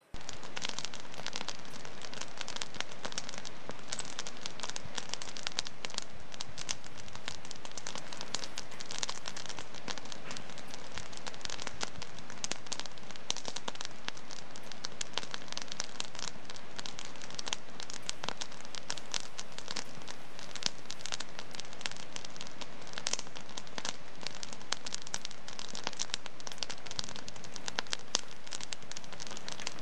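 Wood fire burning in a fireplace, crackling steadily with dense small pops and snaps over a soft hiss.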